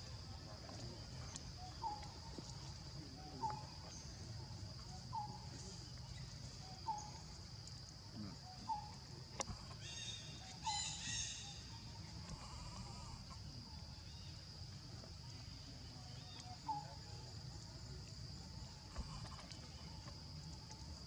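A baby macaque monkey crying with short, plaintive calls, repeated about every second and a half to two seconds, with a higher squealing call about ten seconds in. A steady high-pitched drone runs underneath.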